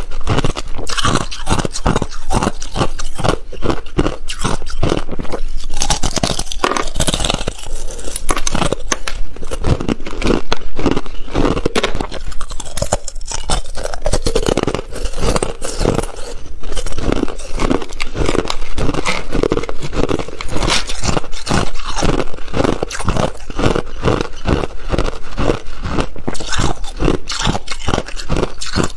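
Thin ice being bitten and chewed close to the microphone: a continuous, loud run of rapid crisp crunches and cracks.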